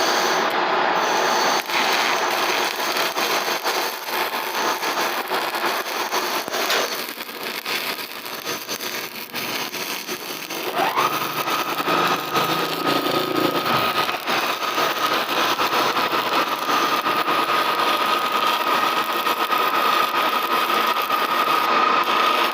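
Stick (shielded metal arc) welding: the electrode's arc crackling and hissing steadily. About halfway through, a steady high whine joins it and holds.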